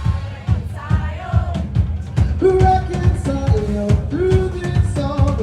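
A band playing a song: a drum kit keeps a steady beat under a sung or played melody line.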